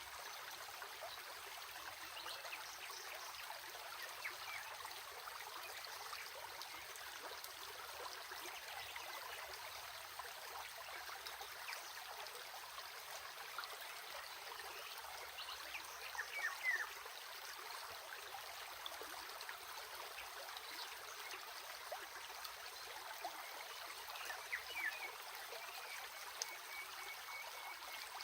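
Stream of running water babbling and trickling steadily, with a few short brighter plinks or chirps about halfway through and again near the end.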